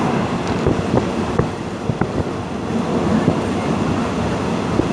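Passenger train running: a steady rumble with scattered knocks and clicks.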